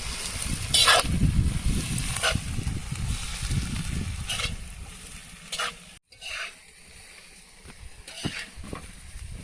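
Food frying in a kazan while it is stirred, with several sharp scrapes of the utensil against the pot.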